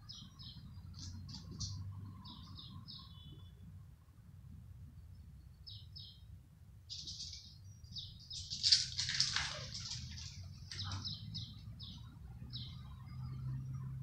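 Birds chirping in quick clusters of short high notes, with a gap in the middle and a louder, noisier burst of calls about nine seconds in.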